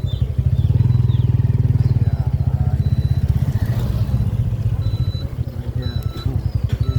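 Motorcycle engine running while riding, a steady low pulsing exhaust beat. It eases off a little about five seconds in and picks up again near the end.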